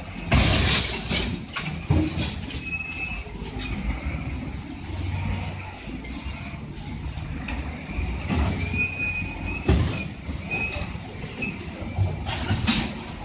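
Bulldozer running with a low engine drone, broken by several loud crashing impacts and short high metallic squeals.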